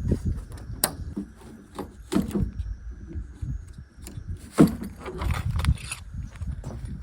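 Handling noise from pitching a backpacking tent: irregular clicks, clacks and scrapes of poles and clips with fabric rustling over a low rumble, with a sharp knock about a second in and a louder one about four and a half seconds in.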